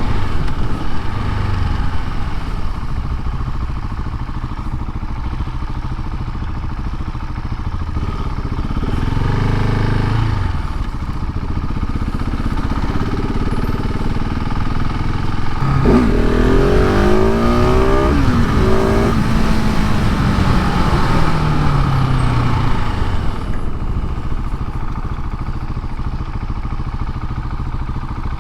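KTM 690 SMC R's single-cylinder engine running through its stock exhaust while riding. It rises briefly about a third of the way in. Just past halfway it accelerates hard through quick upshifts, with the pitch climbing in steps, then the revs fall away steadily before it settles back to steady running.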